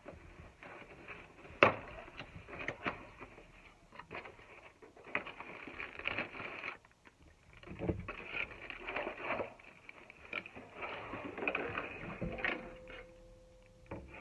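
Handling noises: scattered clicks, taps and knocks with rustling in between, the sharpest click about a second and a half in, and a short steady tone near the end.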